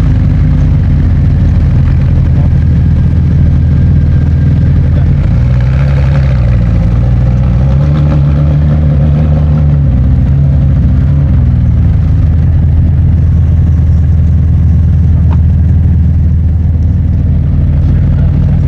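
Car engine idling loudly and steadily, its note rising a little about six seconds in and wavering for a few seconds after as the throttle is touched lightly.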